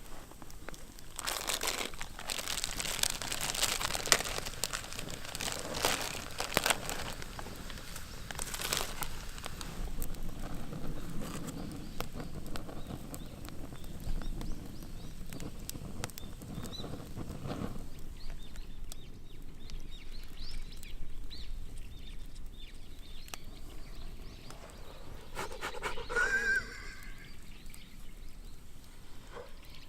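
Crackling and crunching, dense for the first several seconds and then sparser, with a short high animal call that bends in pitch near the end.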